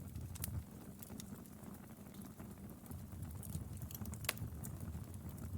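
Wood fire crackling: scattered sharp pops and snaps over a low, steady rumble, the loudest pop about four seconds in.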